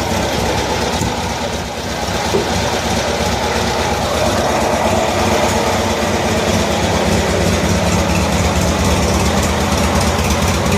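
1974 Cushman Truckster's engine running steadily at idle, with one small knock a little over two seconds in.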